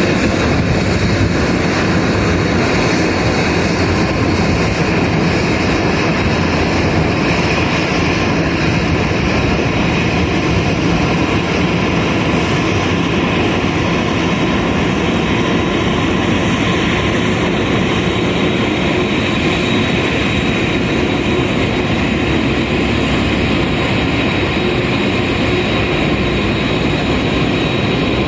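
Boeing 787-8's Rolls-Royce Trent 1000 jet engines running steadily at idle: a constant rushing noise with a faint steady high whine.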